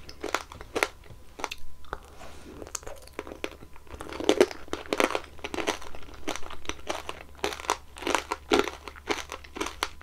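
Strawberry tanghulu being bitten and chewed close to the microphone: the hard sugar-candy shell cracks and crunches in quick irregular clusters, with softer chewing between.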